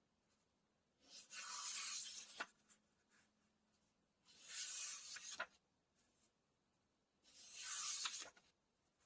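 Book pages turned three times, about three seconds apart: each turn is a papery swish of about a second that ends in a sharp click.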